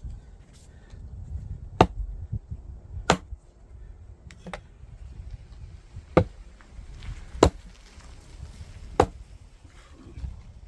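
Five sharp blows of a splitting axe into a firewood log, a second or so apart at an uneven pace, with a lighter knock between the second and third.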